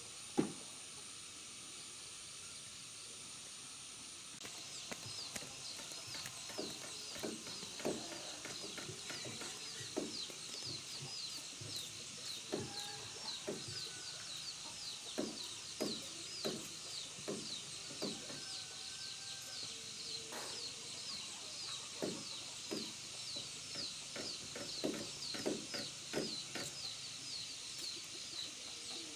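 Chickens clucking, with a fast, even run of high chirps that begins about four seconds in and carries on underneath.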